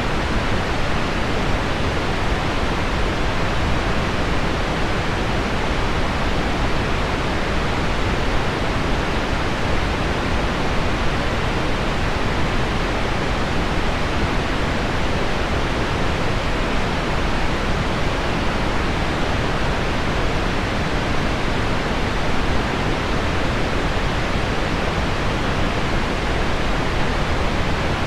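Steady pink noise blended with heavy rain on window glass, an even, unbroken hiss with no single drops standing out.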